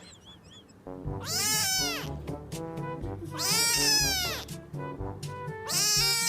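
A cat giving three long, drawn-out meows about two seconds apart, each rising and then falling in pitch, over background music with a beat.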